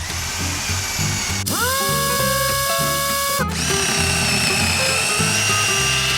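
Power drill sound effect whirring: a whine that spins up about a second and a half in, holds steady, then shifts to a higher, thinner whine about three and a half seconds in. Background music plays underneath.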